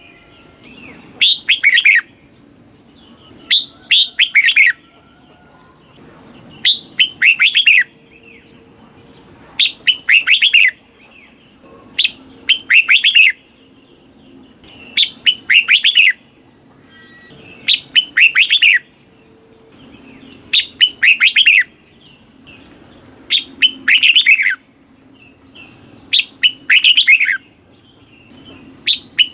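Red-whiskered bulbul singing: short, loud phrases of several quick whistled notes, repeated every two to three seconds.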